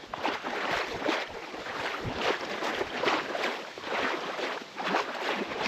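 Legs wading upstream through knee-deep creek water against the current, the water swishing and splashing in an uneven run of strokes.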